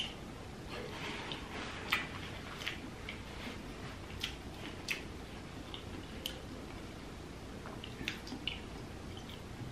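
A person chewing seafood, with wet mouth smacks and several sharp, sticky clicks at irregular intervals.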